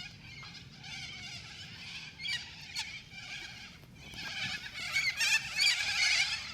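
A large flock of small birds chirping together, many short overlapping calls at once, swelling louder about four seconds in.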